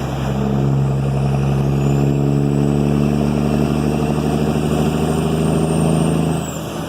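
Kenworth W900's Cat 3406E inline-six turbo diesel running through 8-inch straight pipes, pulling steadily. A thin high whistle climbs slowly over it, then the engine eases off and the whistle drops away near the end.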